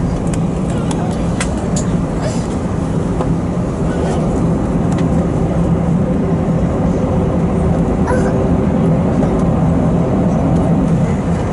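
Steady drone inside an Airbus A320 cabin while the jet taxis, with a constant low hum and a few small clicks and knocks from within the cabin.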